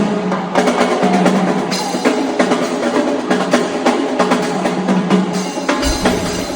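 Live percussion battle: fast drumming with drum rolls and snare-like hits over a steady backing track, with a deep bass coming in near the end.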